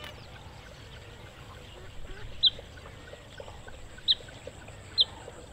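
A few short, high chirps of a small bird, single notes about a second apart, starting about halfway in, over a faint outdoor background.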